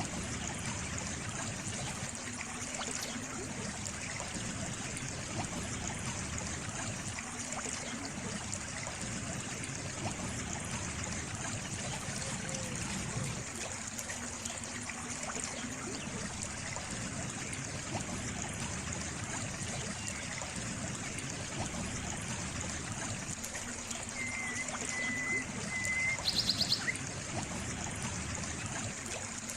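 Flowing water trickling and babbling steadily, as from a small stream. Near the end a brief thin high whistle comes in, followed by a quick rapid trill, louder than the water for a moment.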